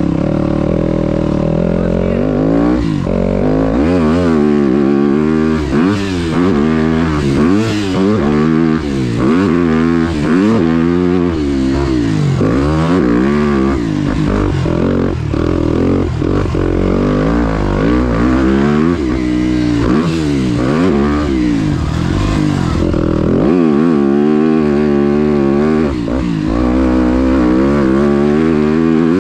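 Dirt bike engine being ridden hard around a sand motocross track, its pitch climbing and falling again and again as the rider twists the throttle, shifts and backs off through turns and over jumps.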